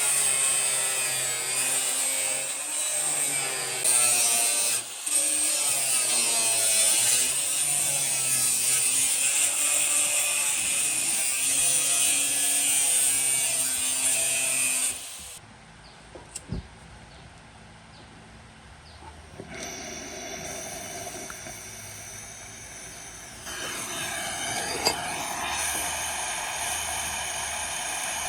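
Electric power tools running on metal during rust removal, their pitch wavering as the load changes. The first one cuts off suddenly about halfway through. Soon after, another tool runs with a steadier whine that grows louder near the end.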